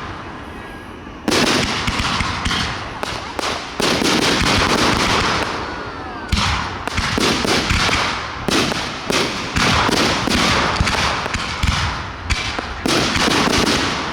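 Fireworks display: a run of loud aerial shell bursts, each a sharp bang followed by a crackling tail, coming every one to two seconds and overlapping.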